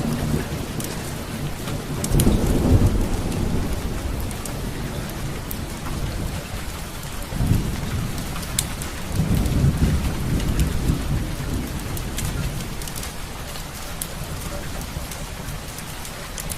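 Steady rain with thunder rumbling twice, briefly about two seconds in and longer from about seven to eleven seconds, over the scattered sharp pops and crackles of a wood fire burning in a fireplace.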